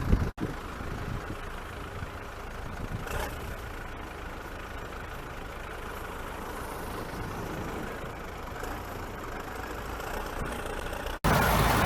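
Steady vehicle engine noise with no clear events. It becomes suddenly much louder near the end.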